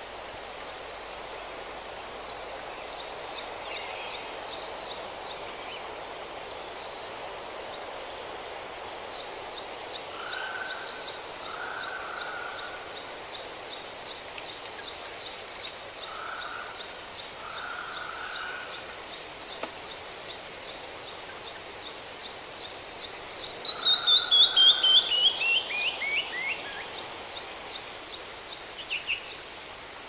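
Several birds singing over a steady hiss: a rapid high trill runs for many seconds, short lower calls come a few times, and about three quarters of the way through a loud run of notes slides steeply downward.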